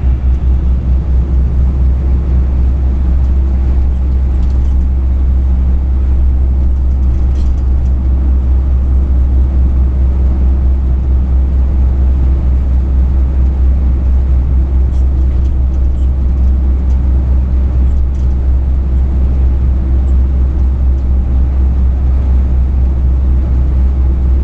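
Truck engine and road noise as a steady, loud, low drone, with the engine's hum holding an even pitch throughout and a few faint ticks.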